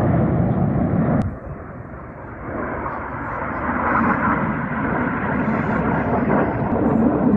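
Jet engine noise from BAE Hawk T1 display jets flying past, a loud rushing roar. About a second in it breaks off sharply with a click and drops, then swells back up as jets approach again.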